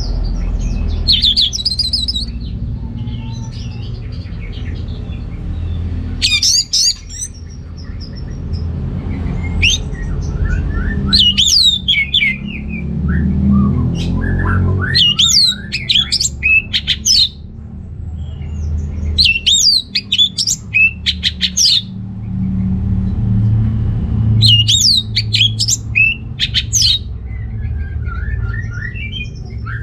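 Orange-headed thrush singing: phrases of quick, sweeping high notes repeated about every four to five seconds, over a steady low rumble.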